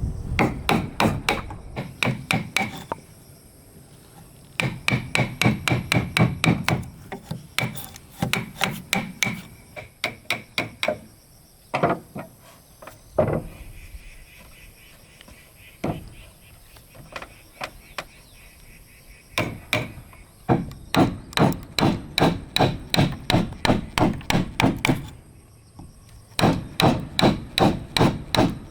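Hammer blows on wood in quick runs of about four strikes a second, broken by short pauses, some runs carrying a faint metallic ring.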